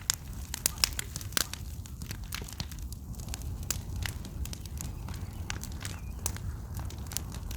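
Big bonfire of scrap burning: sharp crackles and pops, several a second, over a low steady whoosh of the flames.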